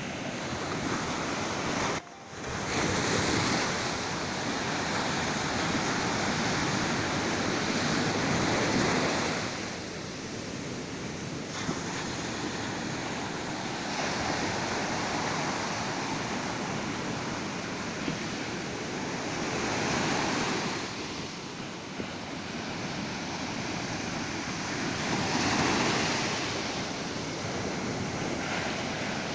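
Ocean surf: waves breaking and washing up a beach, swelling and ebbing every few seconds. The sound briefly cuts out about two seconds in.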